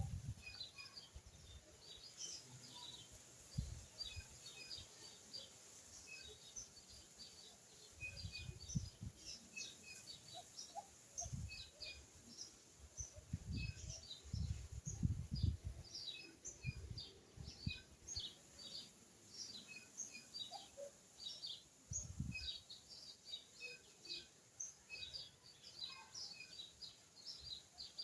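Small birds chirping continuously: many short, high chirps a few each second, with irregular low thumps in the middle stretch.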